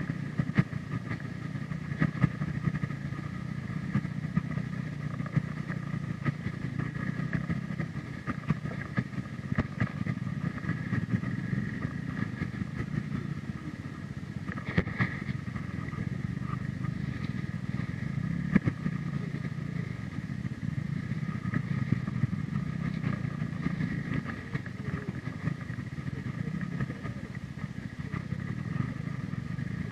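Hero Xpulse 200 4V's single-cylinder engine running at low speed on a rough rocky track, with frequent clicks and rattles as the bike jolts over the stones.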